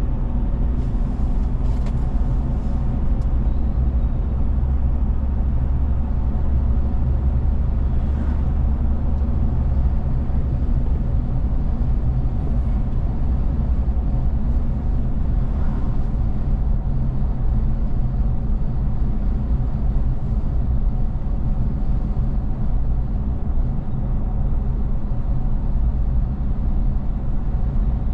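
Steady engine hum and road noise of a vehicle driving along, its level even with no speech over it.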